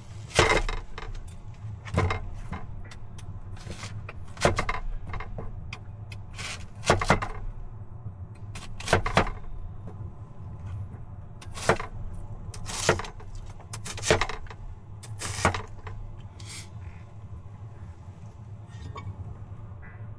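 Kitchen knife chopping an onion on a cutting board: a dozen or so sharp chops at uneven intervals, some in quick pairs, which stop about sixteen seconds in. A steady low hum runs underneath.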